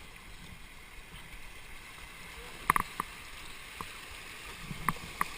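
Kayak paddling on a river: a steady rush of moving water, with a few sharp knocks from the paddle, a quick cluster about halfway through and two more near the end.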